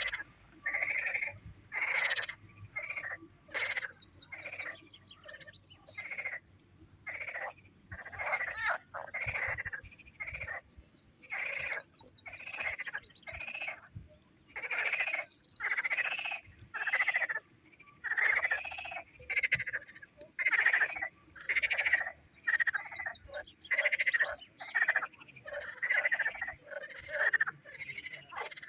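Frogs calling over and over, with short calls repeating about one to two times a second.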